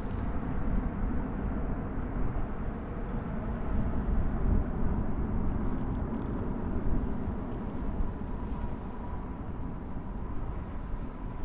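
Jet airliner engines rumbling steadily, with a faint steady whine coming in about halfway through.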